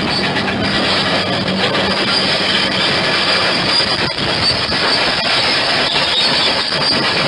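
Crawler bulldozer working, its engine running steadily under the clank and squeal of its steel tracks.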